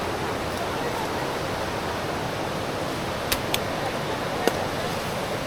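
Steady rushing of a clear, flowing river, with three short sharp clicks past the middle, two close together and one about a second later.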